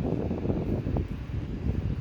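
P30 folding rechargeable camping fan running, its airflow blowing on the microphone as a low, gusty wind noise.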